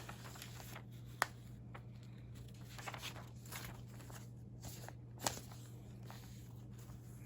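Faint rustling of fragile newsprint clippings and binder pages being handled and turned, with two sharp taps, one about a second in and one about five seconds in, over a low steady hum.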